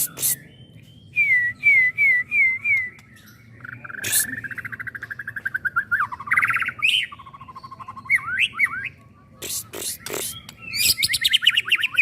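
Young white-rumped shama (murai batu) singing a varied song: a run of five quick down-slurred whistles, then buzzy trills and warbled phrases, mixed with several sharp clicks.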